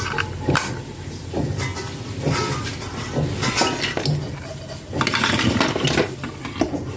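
Irregular clicks, knocks and clinks of small hard objects being handled, with a busier clatter about five seconds in: tools and plastic toy parts on a workbench during a repair.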